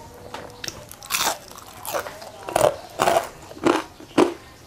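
Close-up crunching and chewing of crispy deep-fried battered chicken, with a run of sharp crunches about two a second after the first second.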